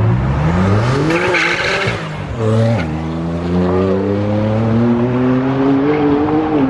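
A sports car accelerating hard from the show exit. The engine revs climb, and there is a burst of tyre squeal about a second in. Near three seconds the pitch drops sharply as it shifts up, and it then pulls steadily higher again.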